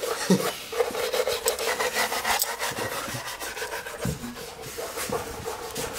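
Hand tools working on engine parts: a steady rasping, scraping sound broken by many small rapid clicks.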